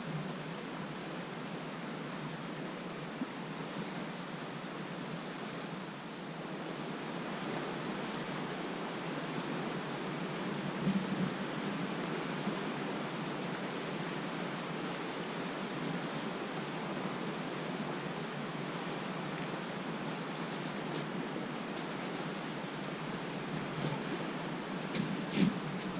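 Steady rush of wind and lake water washing, with a few brief louder bumps about halfway through and again near the end.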